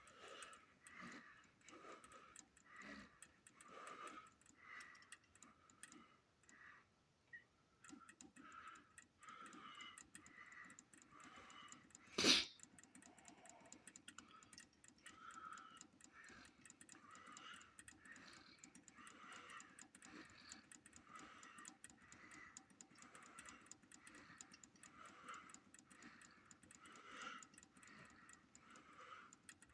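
Faint regular ticking, a soft beat somewhat more than once a second, with one sharp click about twelve seconds in.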